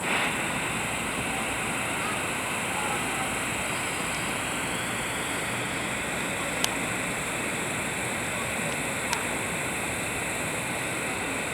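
Steady, even hiss-like noise with two brief sharp clicks a few seconds apart past the middle.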